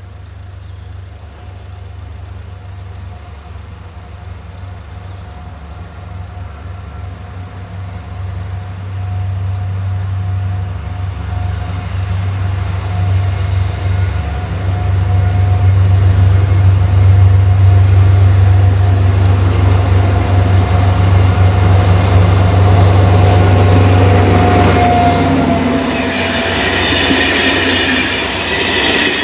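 SNCF CC 72100 six-axle diesel locomotive with a Pielstick engine running loudly as it passes slowly with a train, its deep engine drone growing steadily louder. Near the end the engine sound drops away and the clatter and squeal of the coaches' wheels on the rails takes over.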